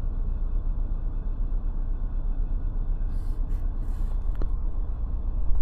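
A vehicle idling, heard from inside the cab as a steady low rumble, with a few faint clicks about three to four and a half seconds in.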